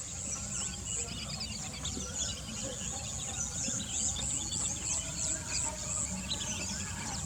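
Outdoor wetland ambience: a steady high-pitched insect trill that pulses regularly, with scattered small bird chirps and a low background rumble.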